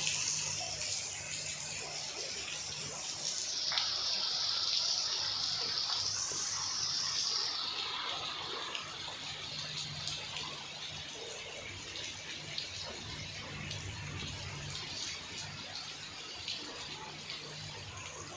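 Heavy rain falling, a steady hiss that swells a few seconds in and then eases slightly.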